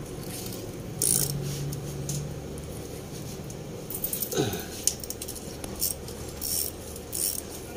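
Small metal clinks and rattles of hand tools and engine parts being handled, with a short falling squeak about four seconds in.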